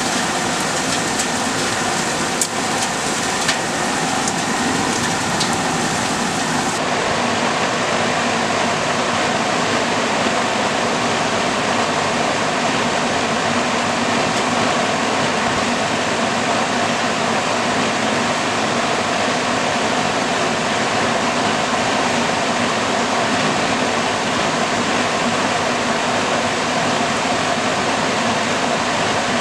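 Steady rain from a severe thunderstorm, falling hard and evenly, with a few sharp ticks of drops in the first few seconds.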